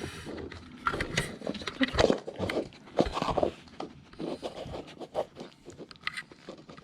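A Shiba Inu pawing and nosing at upturned cups that hide a treat, making irregular scrapes and clicks with a few sharper knocks about two and three seconds in.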